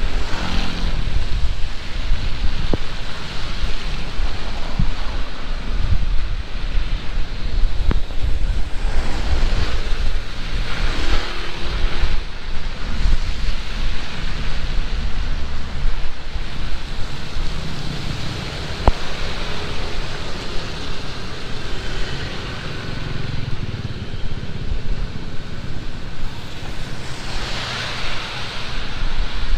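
Heavy rain falling steadily, with strong wind buffeting the microphone as a low rumble. The rush swells louder a few times, around ten seconds in and near the end.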